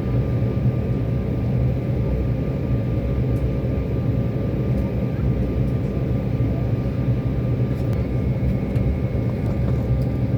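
Steady low rumble of an airliner heard from inside the passenger cabin, engines and air systems running with a faint steady whine over the drone.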